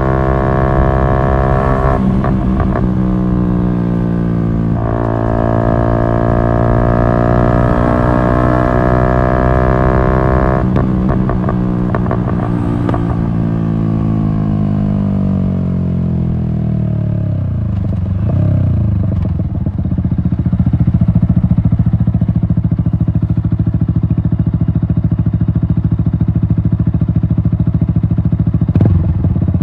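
Yamaha MT-125's single-cylinder four-stroke engine through an Akrapovic exhaust, running at high revs with a brief dip about five seconds in, like a gear change. Then the revs fall steadily as the bike slows, and it settles into a steady low-rev beat for the last ten seconds.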